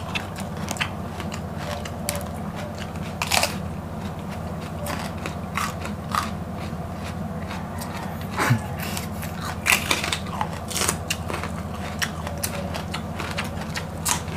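Close-up crunching and chewing of raw green bell pepper, with irregular crisp bites and wet mouth sounds. Underneath runs a steady low hum.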